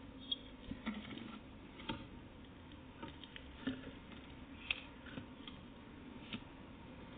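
Scattered light taps and clicks at an irregular pace, about one or two a second, over a faint steady background.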